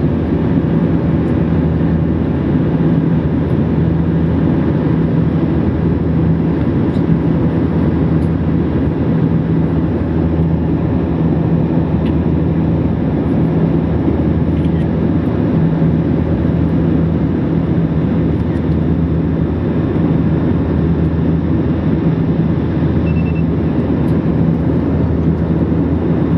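Steady drone of an airliner's passenger cabin while under way: engine and airflow noise with a held low hum and no change in level throughout.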